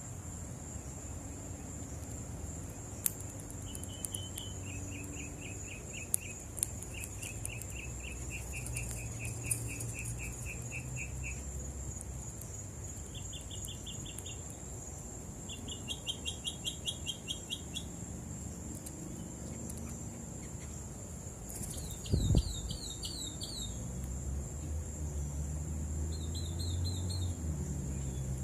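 Songbirds singing in bouts of rapid repeated-note trills over a steady high-pitched drone of insects. A few sharp clicks and, about two-thirds of the way through, a short low thump.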